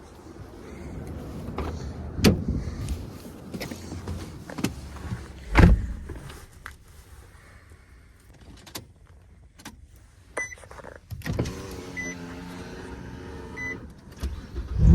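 Handling noises in a car: scattered knocks and one loud thump about five and a half seconds in, a power window motor, and three short high beeps in the second half.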